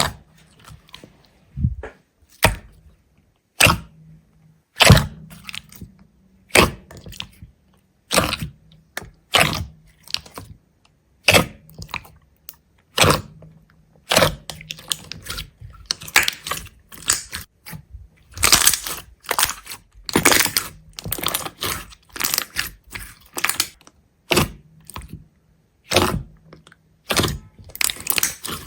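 A series of sharp cracks and crunches, something brittle being broken or crushed: single cracks about every second or so at first, then quicker crackling clusters in the second half.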